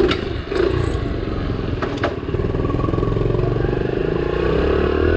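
Honda CT70's small 70cc single-cylinder four-stroke engine running and pulling away, its revs climbing toward the end. A few sharp clicks come in the first two seconds.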